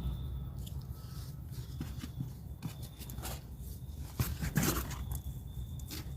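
Crunching and rustling of a soil, compost and peat moss mix being worked by hand in a storage tote, in short irregular strokes. The loudest stretch of crunching comes about four and a half seconds in.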